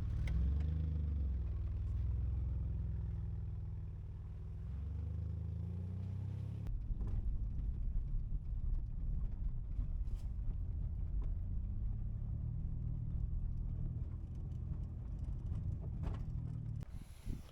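A motor vehicle's engine running at steady low revs while driving. Its pitch wavers slightly over the first few seconds, and the sound changes abruptly about six and a half seconds in, then runs on steadily.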